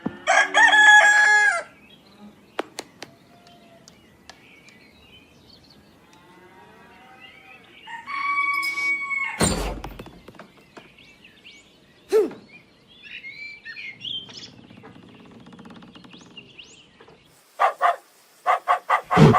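Animal calls: a loud, long call held on one pitch about half a second in, another held call about eight seconds in, and a quick run of short calls near the end.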